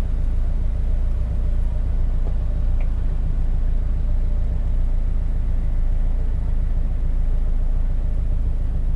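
Supercharged Subaru flat-four engine with reworked exhaust running at a steady idle, a constant low rumble heard from inside the car.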